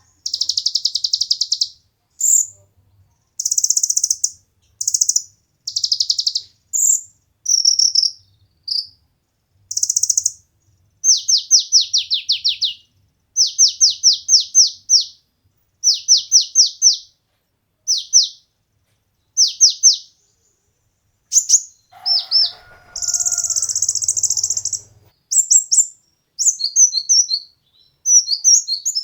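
Sunbird known as kolibri ninja ('konin') singing in short, high-pitched phrases with brief gaps: buzzy trills alternate with quick runs of downward-sweeping notes. This is the kind of competition-style song played to tutor caged birds.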